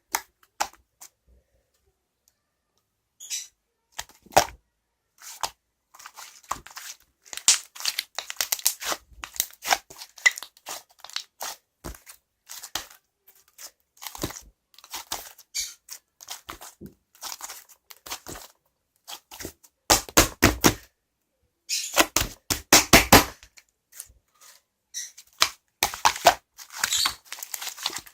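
Hands squishing, stretching and pressing purple clay slime, making irregular bursts of sticky clicks, pops and crackles, loudest about two-thirds of the way through.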